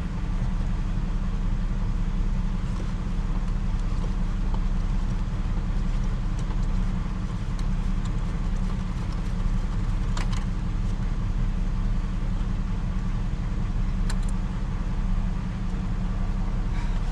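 Steady low rumble of a running motor vehicle, with a couple of faint clicks.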